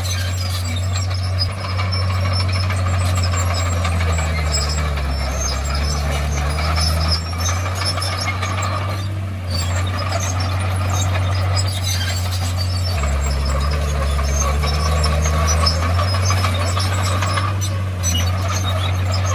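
Komatsu D51PX crawler bulldozer's diesel engine running, its note dropping twice, about four and thirteen seconds in, with high squealing from the tracks and running gear.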